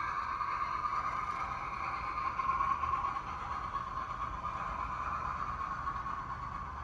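HO scale model train running steadily along the track, a steady mechanical hum and rolling noise that slowly fades.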